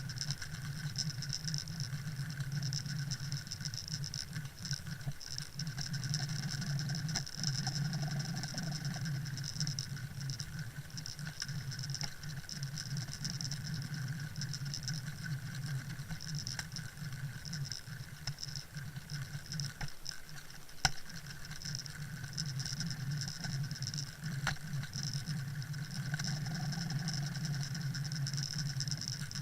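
Underwater noise: a steady crackling patter with a few sharp clicks, the loudest about 21 seconds in.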